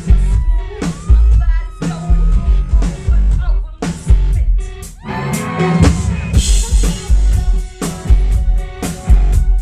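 A rock band playing live, heard from close to the stage: a hard-hitting drum kit with heavy bass, guitar and synth, and some singing.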